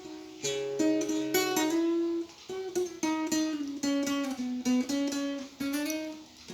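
Solo acoustic guitar played fingerstyle: plucked melody notes over a light bass, each note ringing on, in a slow flowing piano-piece arrangement.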